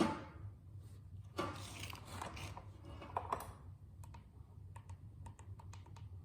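Hand tools and parts clicking and scraping during work on a motorcycle's rear wheel assembly: a sharp knock at the start, a stretch of scraping, then a run of small, irregular clicks.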